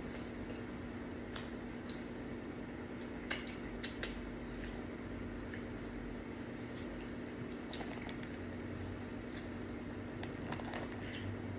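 Close-up mouth sounds of someone eating French fries: chewing with a few short smacks and clicks, the loudest about three seconds in, over a steady low hum.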